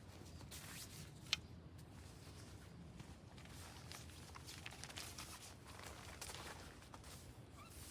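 Faint irregular rustling and scraping, with one sharp click a little over a second in.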